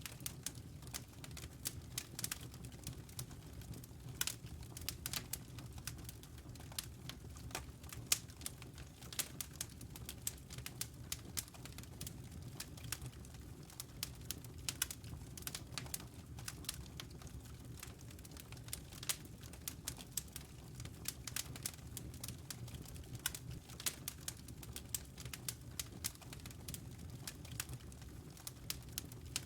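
Wood fire burning in a fireplace: constant irregular crackles and snaps from the burning logs over a low steady rumble of the flames.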